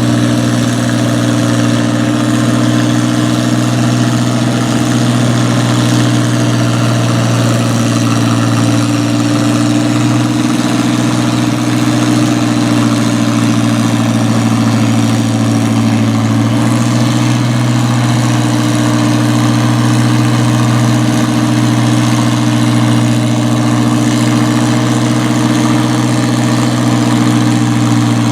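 Farm tractor engine running steadily at an even speed, with a slight change in pitch about two-thirds of the way through.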